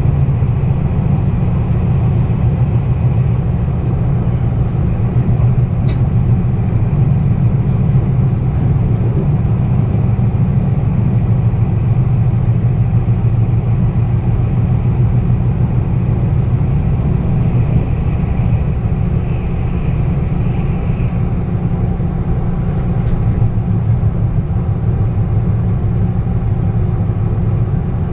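Meitetsu 1200 series electric train running at speed, heard from inside the car: a steady low rumble of the wheels on the rails and the running gear.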